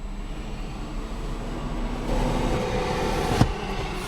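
Steady hum of a car heard from inside its cabin, with a sharp click about three and a half seconds in.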